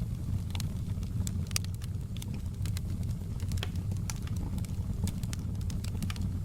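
Wood fire burning in a fireplace: a steady low rumble with irregular sharp crackles and pops, several a second.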